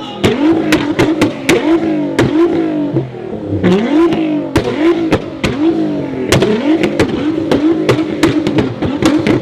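A tuned performance car's engine is revved in quick repeated blips, its pitch rising and dropping back about once or twice a second, with many sharp cracks from the exhaust between.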